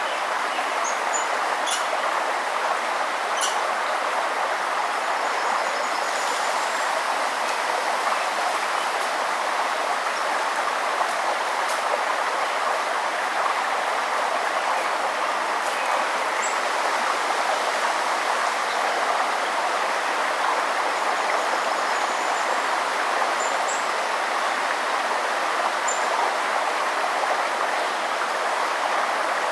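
River water flowing in a steady, even rush, with a few faint short high bird chirps now and then.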